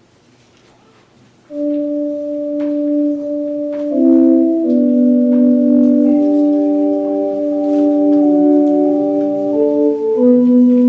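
Church organ playing sustained chords, entering suddenly about a second and a half in after a stretch of quiet room sound with a few faint clicks.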